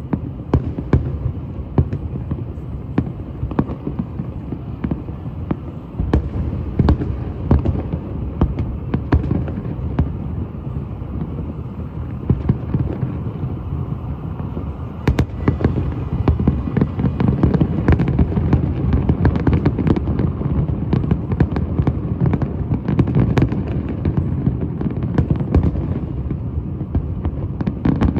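Fireworks display: a continuous run of booms and crackling pops over a low rumble, growing louder and denser about halfway through.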